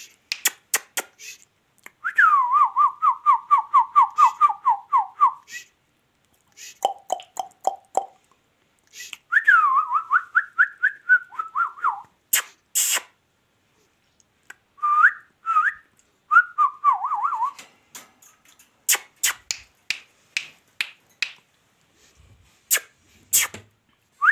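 Warbling whistled trills that pulse rapidly and dip in pitch, in three runs of a few seconds each, with sharp clicks and smacks in between.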